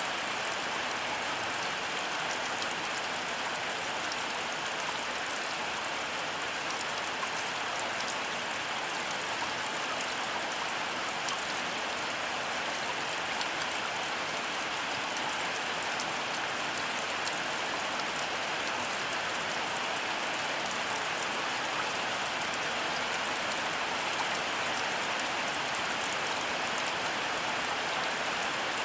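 Heavy rain falling steadily, a dense even hiss of countless drop impacts with no let-up and no thunder.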